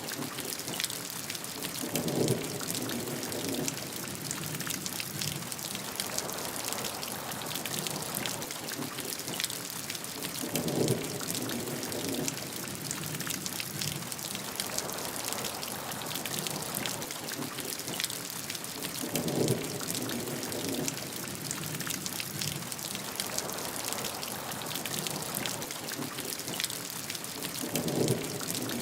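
Steady heavy rainfall with a dense patter of drops. A short low rumble swells up four times, at even intervals of about eight to nine seconds.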